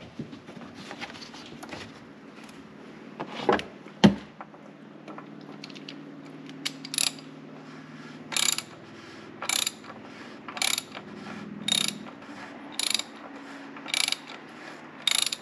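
Ratchet wrench being worked back and forth to tighten a fastener, its pawl clicking in short bursts about once a second, after two sharp knocks a few seconds in.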